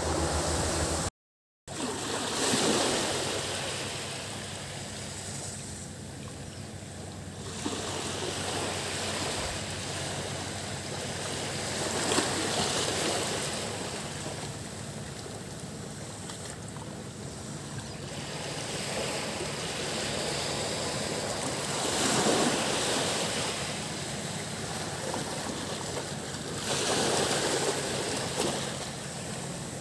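Waves breaking on a sandy beach, each surge swelling and washing out about every five seconds, over a steady high drone of cicadas. The sound cuts out completely for a moment just over a second in.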